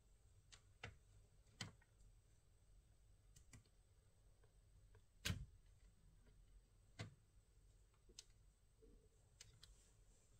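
Faint, scattered clicks and taps of small hard parts being handled, over near-silent room tone; the sharpest click comes about five seconds in.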